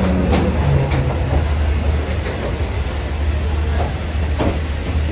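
Passenger train running on the tracks: a steady low rumble with a few sharp clacks of wheels over the rails.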